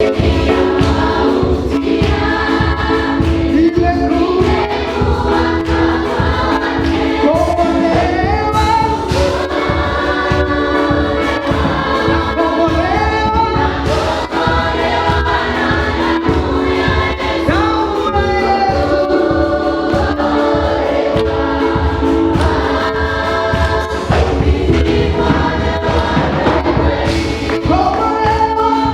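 A choir singing a gospel song in Swahili with instrumental backing and a steady beat.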